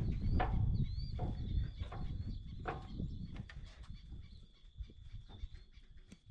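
Wild birds calling, a series of short calls repeating roughly every second in the first few seconds and then thinning out, over wind rumbling on the microphone. A thin, steady high-pitched trill runs underneath.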